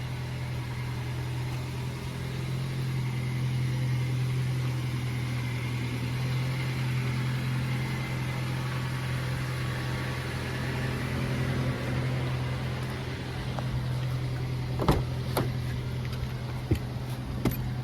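Car engine running with a steady low hum, heard from inside the cabin. A few sharp clicks or knocks come near the end.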